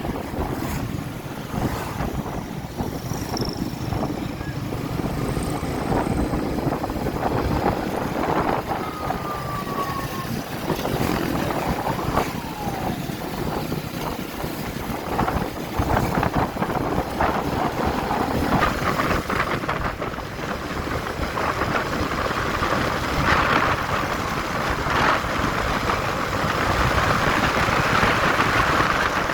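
Motorcycle under way on the road: a steady rush of wind and road noise with the engine underneath. A few brief passing tones sound early on, and the rush grows louder and hissier over the last several seconds.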